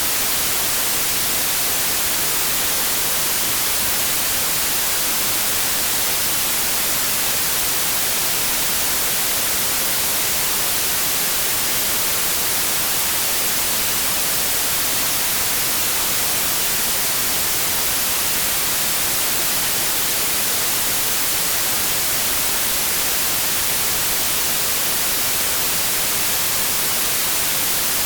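Steady, unbroken white noise: an even hiss across the whole range, brightest in the highs.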